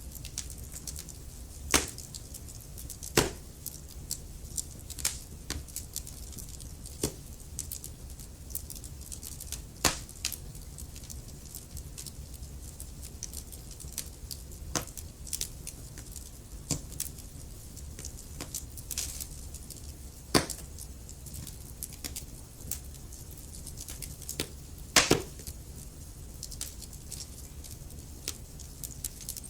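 Wood fire crackling: irregular sharp pops and snaps over a soft steady rumble and hiss of the flames, with a few louder pops scattered through.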